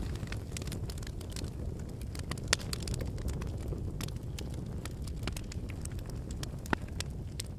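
Wood campfire burning with a steady low rumble of flames and frequent sharp crackles and pops of firewood, two louder pops about two and a half and six and a half seconds in.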